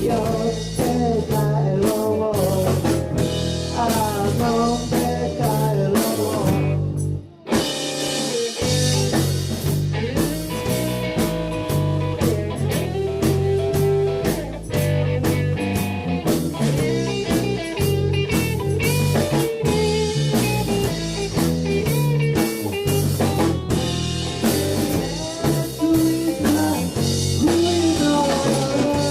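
Live blues-rock band playing, with drums and bass under bending lead lines. The whole band stops dead for about a second around seven seconds in, then comes back in.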